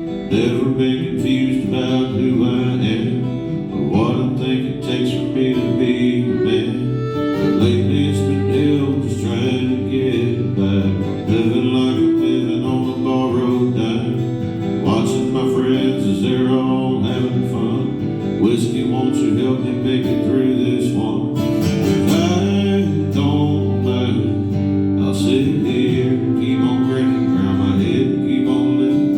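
Live country music led by strummed acoustic guitar, playing continuously; deeper low notes join about seven or eight seconds in.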